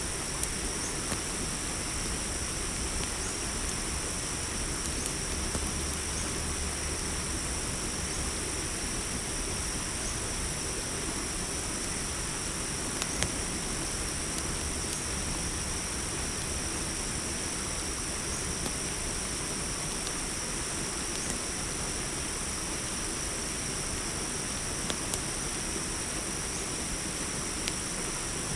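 Night cricket chorus, a steady high-pitched trilling, over a soft even noise, with a few sharp pops from a crackling campfire.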